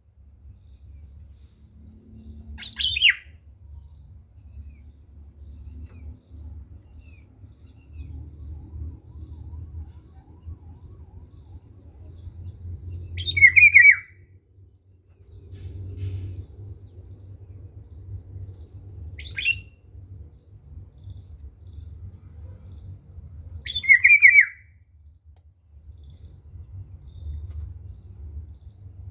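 A bird giving four short, sharp calls several seconds apart, each dropping steeply in pitch, over a low rumble.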